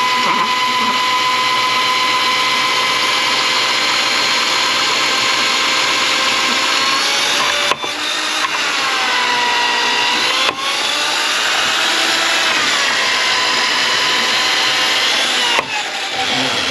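Electric drain snake motor running with a steady whine. It cuts out briefly three times, and its pitch sags and recovers in the middle, slowing under load.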